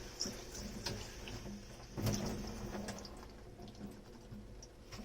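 Washing dishes by hand at a kitchen sink: tap water runs, with dishes and utensils knocking against each other. The sharpest knock comes about two seconds in, and the running water fades out about three seconds in.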